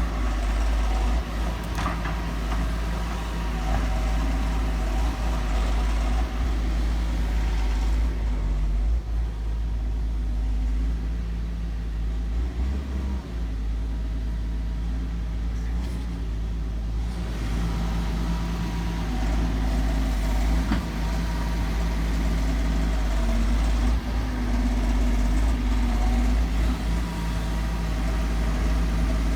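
Excavator's heavy diesel engine running continuously, its pitch stepping up and down several times as the machine works. For several seconds in the middle the sound is duller, with less high-end clatter.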